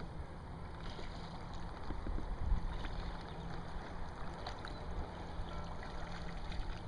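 Water lapping and gurgling against a kayak's hull, with a few faint small knocks.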